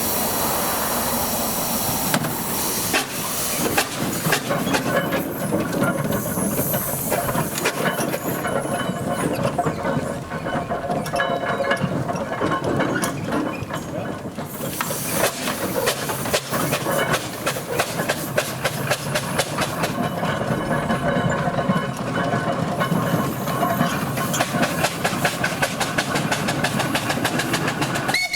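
Steam traction engine running on the road: a steady hiss of steam with a dense, continuous run of clanks and knocks.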